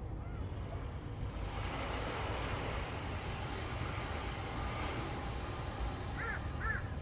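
Waves washing on a shore, the noise swelling after about a second and a half, over a steady rumble of wind on the microphone. A crow caws twice near the end.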